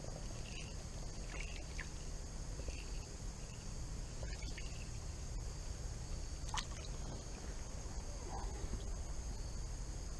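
Creek water sloshing and trickling around a wading angler's legs, under a constant high insect drone, with a few faint chirps.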